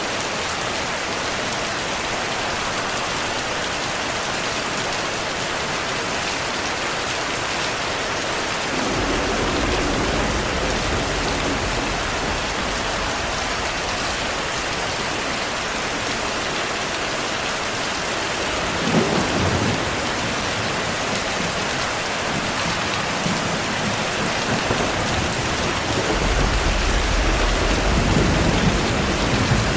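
Steady heavy rain with thunder. A low rumble comes in about a third of the way through, a sharper clap about two-thirds through, and a longer rumble near the end.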